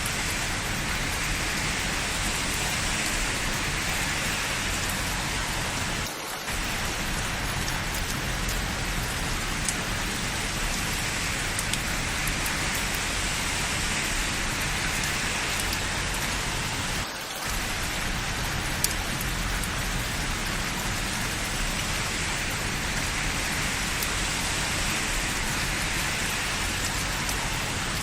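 Steady rain falling, an even hiss with scattered small drop ticks. The level briefly dips twice, about 6 and 17 seconds in.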